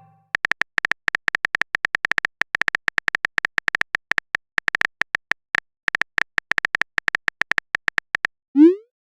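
Phone keyboard typing sound effect: a run of short, sharp taps at an irregular pace of several a second, stopping near the end and followed by a short rising swoosh.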